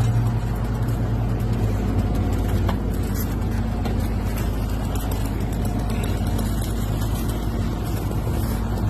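A vehicle engine running steadily at idle, a low continuous hum over even background noise.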